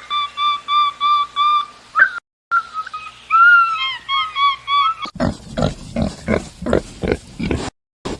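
Series of short whistled bird-like calls, about three a second. After a cut, a pig grunts rapidly and harshly, about four grunts a second.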